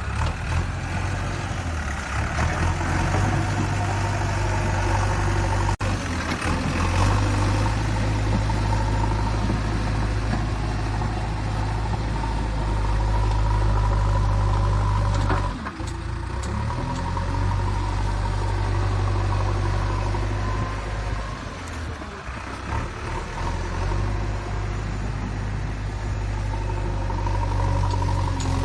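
Truck engine running steadily at idle, with a couple of brief dips where it drops off and picks up again.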